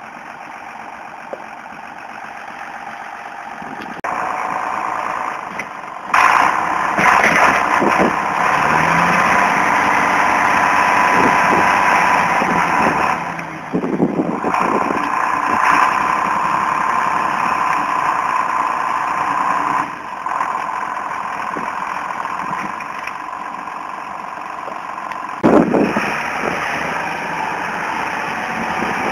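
Tractor engine running, growing louder about four and six seconds in, easing off around twenty seconds and picking up again near the end.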